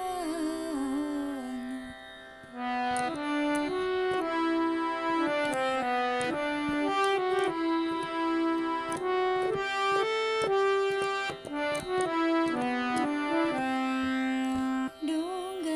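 Instrumental interlude in a Marathi song in Raag Yaman: after a sung note fades in the first two seconds, a keyboard instrument plays a melody in steady held notes, moving step by step.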